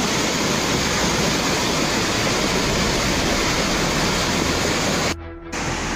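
Steady rush of fast-flowing floodwater. It breaks off sharply for a moment near the end, and a slightly different steady noise follows.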